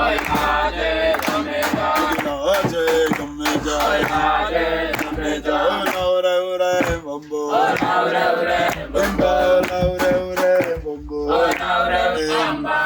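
Men singing a Swahili call-and-response pounding song, with repeated thuds of a pestle pounding roasted coffee beans in a mortar.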